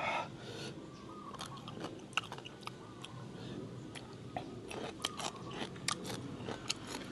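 A person chewing a mouthful of spicy seafood papaya salad close to the microphone, with many short, crisp crunches spread unevenly through the chewing.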